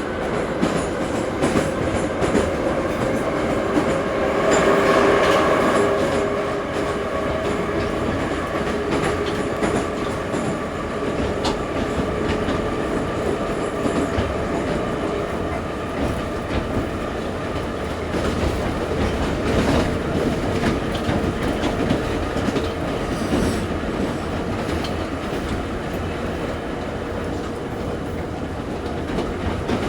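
Ezh3 metro train running between stations: a steady rumble and clatter of wheels on rail, with humming tones over it, loudest about five seconds in.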